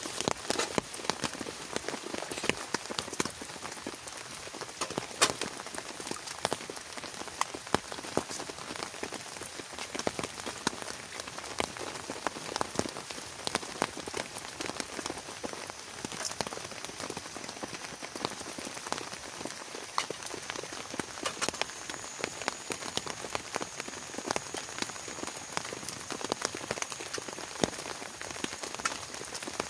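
Heavy rain falling steadily, with many individual drops ticking sharply close by and a few louder hits.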